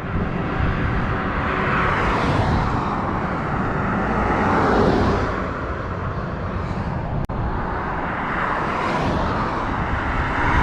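Cars passing by on a country road, their tyre noise swelling and fading about three times, over a constant deep rumble of strong wind buffeting the microphone.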